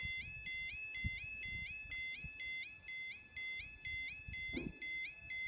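Level crossing audible warning alarm sounding: an electronic two-tone yelp, rising and repeating steadily about twice a second, with a low knock about a second in.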